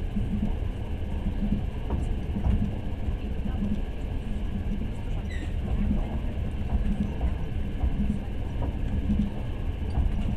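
Passenger train running, heard from inside the carriage: a steady low rumble of wheels on the rails. A brief high squeak comes about five seconds in.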